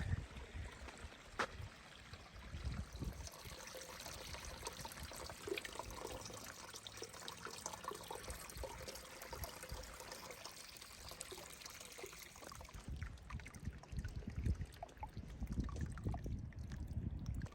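Hot spring water trickling and pouring steadily, with low rumbles on the microphone in the last few seconds.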